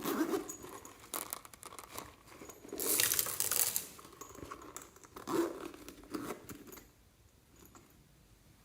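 Slime being squished, stretched and pulled apart by hand, in irregular bursts that are loudest about three seconds in and stop about seven seconds in.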